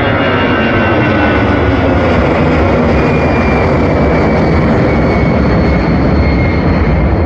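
Airliner engines running loud and close as a plane passes, a steady roar with a few whining tones drifting slowly down in pitch.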